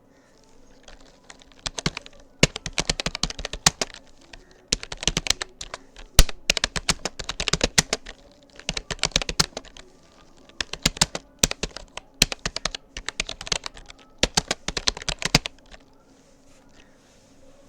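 Typing on a Rapoo computer keyboard: fast runs of key clicks in word-length bursts with short pauses between them, stopping near the end.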